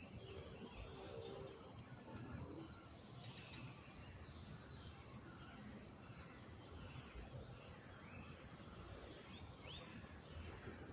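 Rural morning ambience: a steady high-pitched insect trill with scattered short bird chirps and calls over a faint low rumble.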